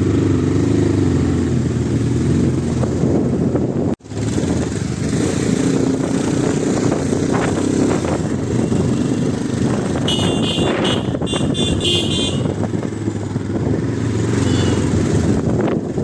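Vehicle engine running steadily while on the move, with road noise. A horn honks for about two seconds, starting roughly two-thirds of the way in. The sound drops out for an instant about a quarter of the way in.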